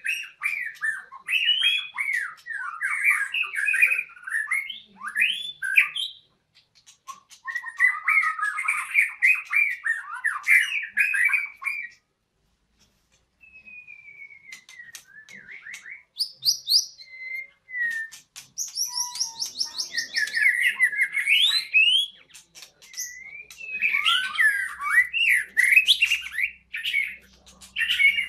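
White-rumped shama (murai batu) singing: long runs of rapid, varied whistled and chattering phrases, broken by a pause of about a second and a half near the middle.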